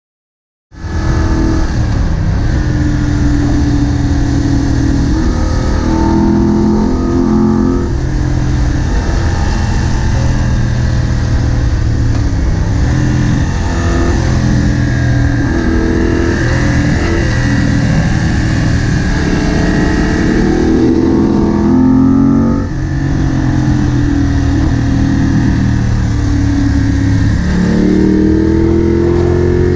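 Moto Guzzi Bellagio's air-cooled transverse V-twin engine running under way, heard from the rider's seat, rising in pitch as it accelerates several times, with a short drop in level about two-thirds through.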